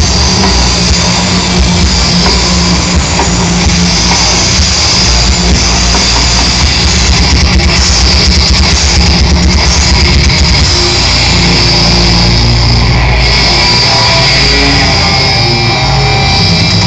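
Loud live rock music with electric guitar and a drum kit, recorded on a phone's microphone.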